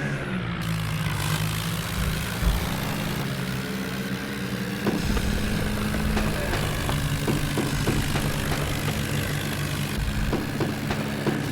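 Tractor diesel engine running steadily, with short clicks and knocks in the later part.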